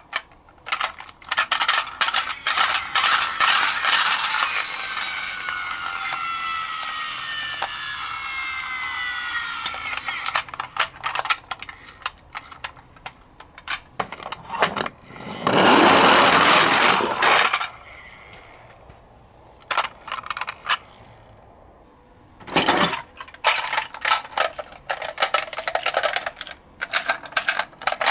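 Clattering and clicking from a toy garbage truck and a cardboard box being handled. A long scraping squeal with falling pitches fills the first ten seconds or so, and a loud rasp about halfway through lasts a couple of seconds.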